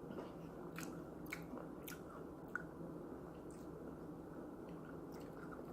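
A person chewing grapes: faint, wet squishing with a few soft clicks, mostly in the first half.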